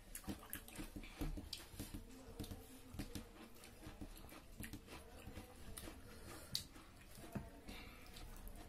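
Faint, close chewing and lip-smacking of people eating with their hands, with many small irregular clicks of mouths, fingers and food.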